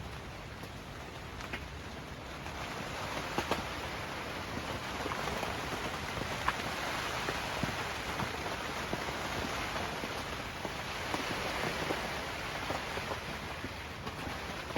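Steady rain falling, with scattered sharper drop hits close by; it grows a little heavier about two seconds in.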